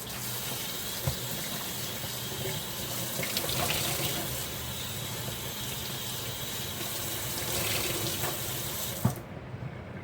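Kitchen tap running into a sink while dishes are washed: a steady rush of water that stops abruptly near the end. A knock comes about a second in, and a sharper, louder knock comes just before the water stops.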